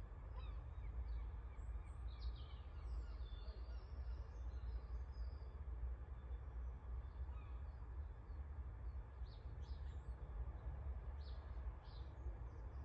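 Wild birds chirping and singing in short, scattered calls, busiest about two seconds in and again near the end, over a steady low rumble.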